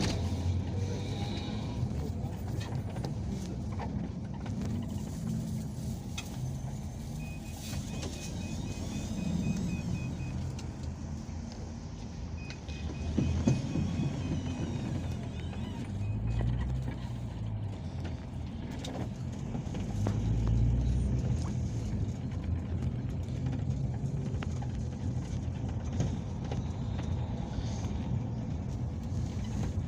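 Peugeot Boxer minibus on the move, heard from inside the cabin: a steady low engine and road rumble, with scattered knocks and rattles. A faint, rapid high ticking comes and goes twice.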